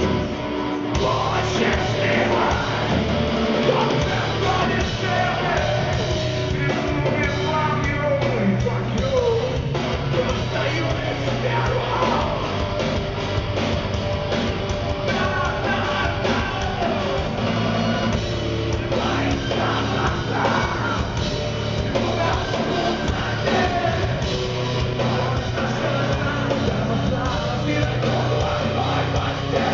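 Live heavy rock band playing loud music, with a singer's voice over guitars and drums.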